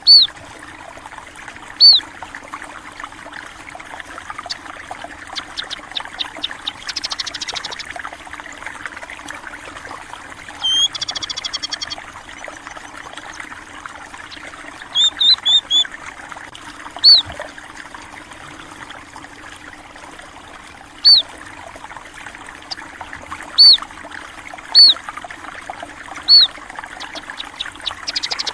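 Small birds giving single sharp, high chirps every second or few, with two short buzzy trills around the seventh and eleventh seconds, over a steady trickle of running water.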